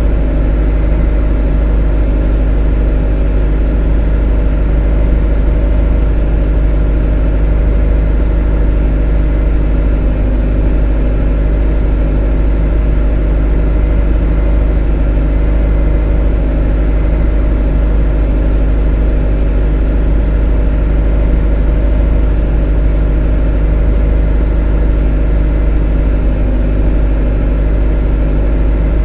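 A motor running at a steady speed: a loud, unchanging low hum with a stack of steady tones above it.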